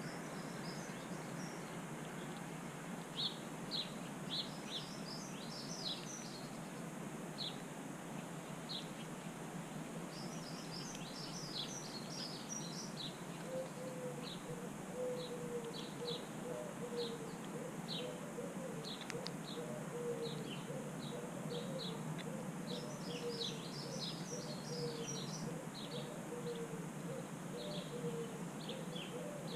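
Small birds chirping, short high chirps in loose clusters throughout, over a steady background hiss. From about halfway, a faint wavering low drone joins in.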